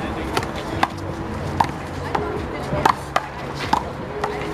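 A rubber handball (the big blue ball) is slapped by hand, hits the wall and bounces on the court during a one-wall handball rally. It makes a string of sharp smacks, about two a second, each with a brief ringing ping.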